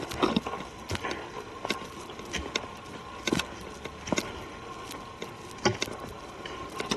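Footsteps on a forest trail: irregular sharp steps about every half second to a second, over a steady background hiss.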